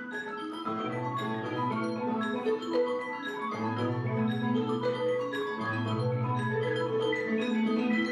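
Mallet percussion music in the marimba and vibraphone sound: many quick pitched notes over low held notes that come in about a second in and return twice more.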